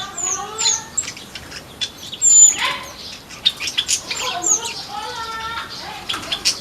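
Flamboyan birds in an aviary calling with short, sharp high chirps, several falling in pitch, amid wing flutters. A louder rush of flapping comes about two and a half seconds in.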